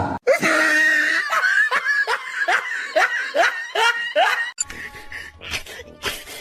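Laughter, a quick run of about nine short falling 'ha' sounds, over background music.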